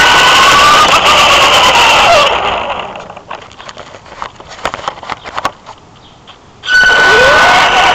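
Electric motor and drivetrain of a Traxxas Slash RC truck whining at speed, the pitch rising and falling with the throttle. About two seconds in the whine falls away to a quieter stretch with scattered light ticks, then comes back suddenly and loud near the end.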